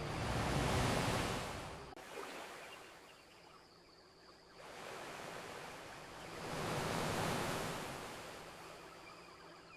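Ocean waves washing onto a beach, two surges about six seconds apart that each swell and fade, with a single sharp crackle about two seconds in.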